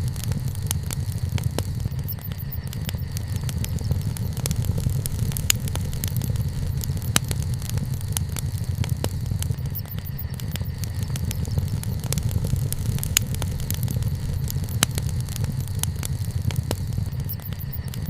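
Wood fire crackling, with frequent sharp pops and snaps scattered over a steady low rumble.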